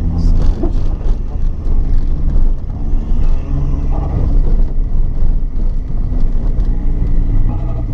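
Car engine running under a heavy low rumble, its pitch shifting up and down a few times as it is driven.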